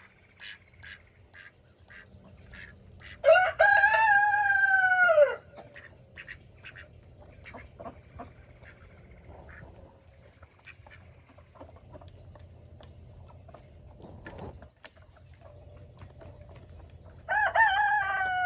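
Rooster crowing twice: a loud crow of about two seconds, falling in pitch at its end, a little over three seconds in, and another starting near the end. Between the crows there are faint short ticks.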